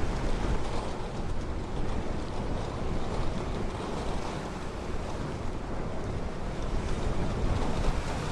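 Ocean waves washing onto a beach in a steady surf rush, with low wind rumble on the microphone.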